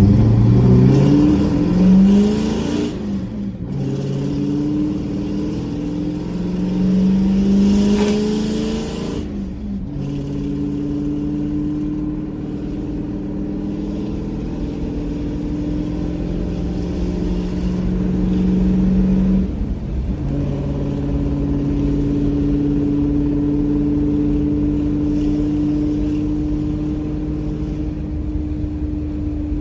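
1987 Ford F-150 engine and exhaust heard from inside the cab, revving up through two gear changes in the first ten seconds. It then cruises at a steady note, with one brief break in the engine note about twenty seconds in.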